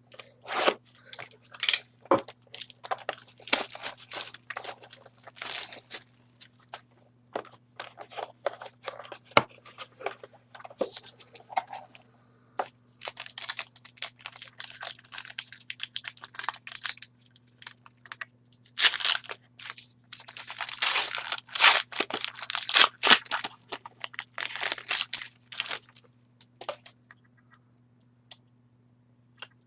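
Sealed trading-card box being opened: wrapping torn and crinkled in irregular rustling bursts, densest in two stretches in the middle and later part, dying away near the end.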